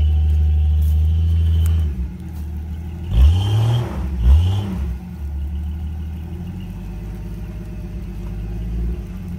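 Jeep Cherokee XJ engine running under load, steady at first, then revving up sharply twice about three and four seconds in before settling back to a lower steady note, as the Jeep keeps trying to drive on a blown rear axle.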